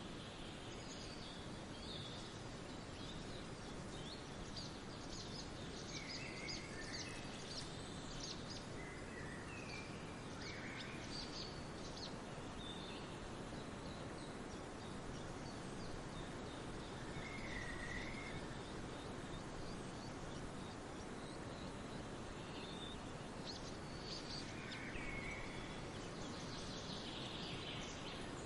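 Birds chirping against a steady background hiss: scattered short chirps and brief trills, busier in the first half and again near the end, with a quieter stretch in between.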